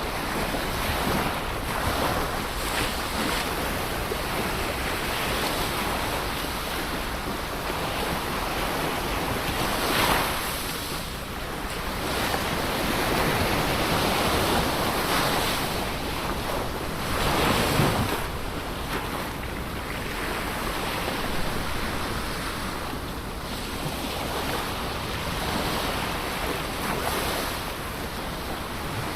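Ocean waves breaking and washing onto the shore in a continuous surf hiss, with a louder wave cresting every few seconds. Wind noise on the microphone.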